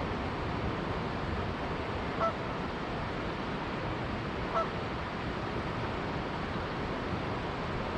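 Canada goose giving two short honks, about two and a half seconds apart, over the steady rush of a flowing river.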